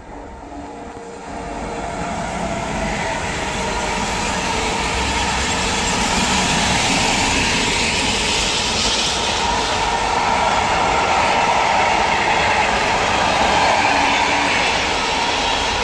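Long container freight train passing on the rails: the steady rolling rumble of its wagon wheels, growing louder over the first few seconds as it approaches and then holding steady as the wagons go by.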